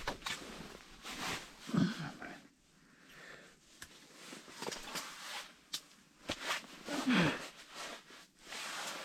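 Hands re-baiting a fishing hook: irregular short rustling and scraping noises, with a couple of short sniffs.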